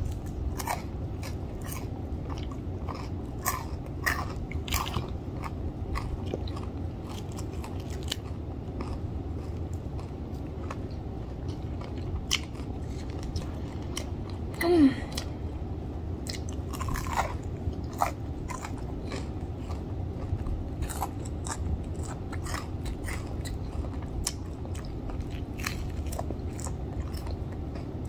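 Biting and chewing crispy fried chicken: a running series of crunches and small wet mouth clicks, with one brief louder sound about halfway through.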